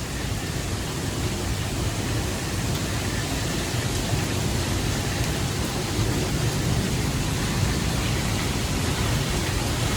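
Heavy rain falling steadily in a severe thunderstorm: a dense, even hiss with no distinct thunderclap.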